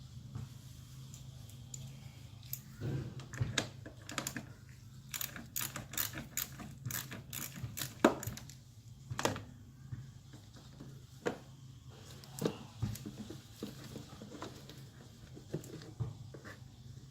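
Hand tools clicking and clinking on metal in quick irregular strikes, from a wrench working the Camry's negative battery terminal and the cable being freed, over a faint steady low hum.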